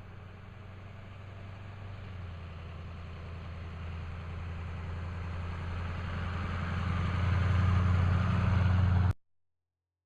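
A motor vehicle's engine running at a steady low hum, growing louder as it draws closer, until the sound cuts off abruptly about nine seconds in.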